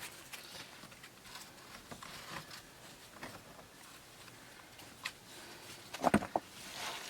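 Scattered light rustles and clicks of things being handled, then a few heavy knocks close together about six seconds in.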